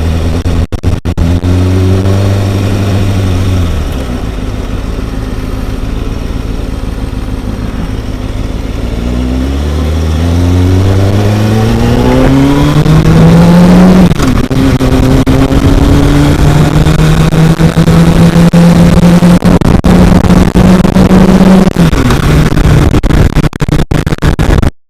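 Kawasaki ZX-6R 636 inline-four engine under way. It runs steady, then drops off about four seconds in, revs up steadily through a gear for several seconds, drops sharply at the shift, and holds a steady, higher cruising pitch before easing off near the end.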